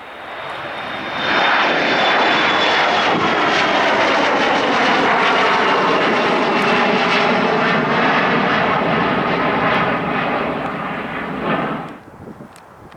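Jet airliner passing close by, its engines loud, with a high whine falling in pitch as it goes past. The noise swells over the first second or so and cuts off suddenly near the end.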